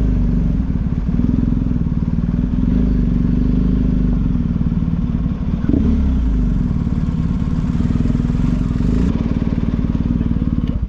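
Motorcycle engine running steadily while riding, with a short dip in level about five and a half seconds in.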